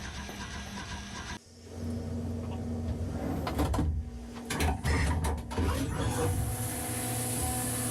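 Haas CNC vertical mill at work: a few sharp clunks and knocks over a low hum, then the machine running steadily with a thin whine and a high hiss. A different steady sound with a repeating pattern stops abruptly about a second and a half in.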